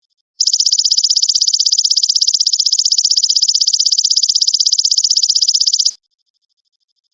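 Belalang emas (golden grasshopper) singing: a loud, high, rapidly pulsed buzzing trill. It starts about half a second in and stops abruptly near the end.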